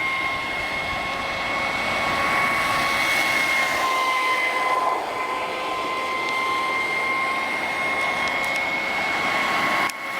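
Traxxas Spartan RC boat's brushless electric motor running flat out with a steady high-pitched whine, over the rush of water and air from the hull. The whine dips briefly near the end.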